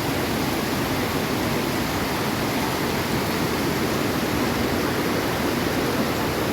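Flash-flood torrent, a great volume of water rushing down a mountain watercourse in one steady, loud rush.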